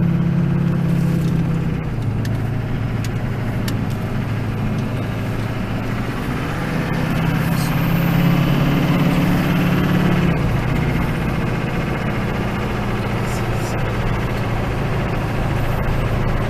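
Duramax 6.6-litre V8 turbodiesel in a 2005 Chevy Silverado 2500HD pulling away on a drive. The engine note rises and then drops twice, about two seconds in and again about ten seconds in, as the truck shifts up.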